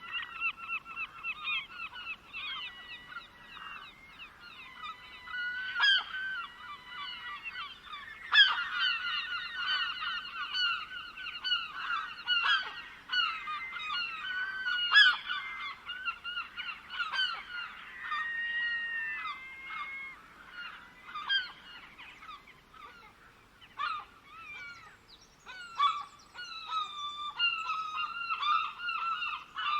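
A flock of birds calling over one another: many short, repeated calls overlapping without a break. The calls thin out for a moment about three-quarters of the way through, then pick up again.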